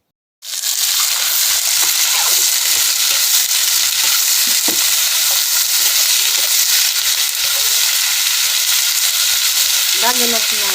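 Sliced onions frying in hot mustard oil in a kadhai: a steady, loud sizzle that starts about half a second in.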